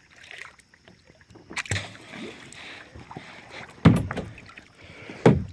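Kayak paddling: three splashy paddle strokes with water washing between them, the later two the loudest.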